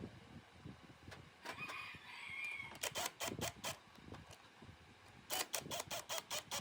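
A chicken calls once, a pitched call about a second long that rises at its end. Then come two quick runs of sharp knocks, about five and then about seven.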